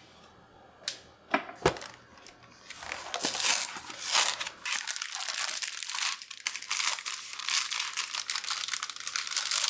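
A few sharp clicks, then several seconds of dense crinkling and tearing of wrapping or packaging being handled.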